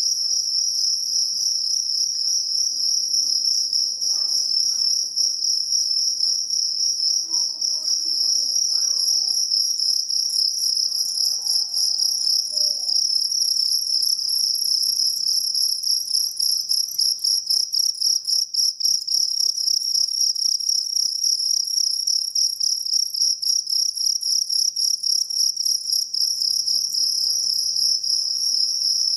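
A jangkrik kalung field cricket singing continuously: a high, rapidly pulsing chirp that keeps up without a break.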